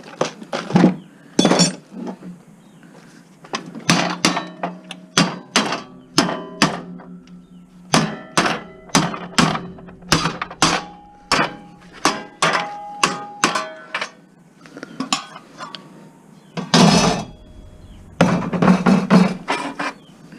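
Hammer blows on the metal of a table saw being scrapped, mostly about two a second in runs with short pauses, each strike leaving a brief metallic ring, as a stuck part is knocked loose. A longer rattling clatter comes about 17 seconds in.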